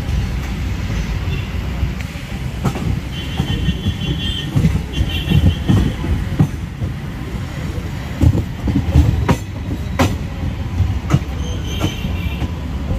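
Express passenger train running, heard from on board: a steady low rumble of wheels on track with irregular sharp knocks over rail joints. Short high-pitched wheel squeals come three times, about three seconds in, near six seconds and near the end.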